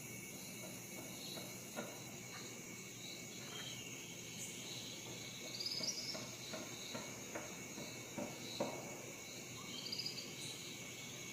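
Forest ambience of insects trilling steadily, with a high note repeating about twice a second. A bird gives a short chirping phrase twice, about six seconds in and again near the end, and a few sharp clicks sound in between.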